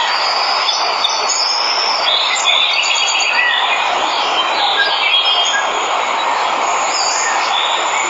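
Steady rushing of a waterfall, with birds calling over it in many short high chirps and trills.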